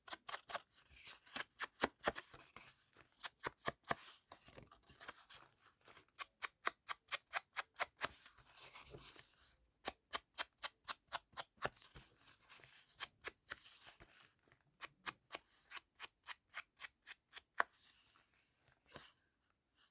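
Scissors cutting paper in quick runs of crisp snips, about four or five a second, stopping and starting every few seconds.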